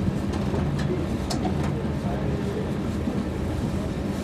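Running noise inside a moving electric intercity train carriage: a steady rumble and hum of the wheels and motors on the track, with a few brief clicks in the first two seconds.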